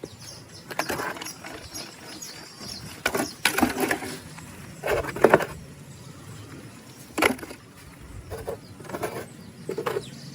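Plastic toy animals handled and knocked together: a run of short, irregular clicks, knocks and scrapes.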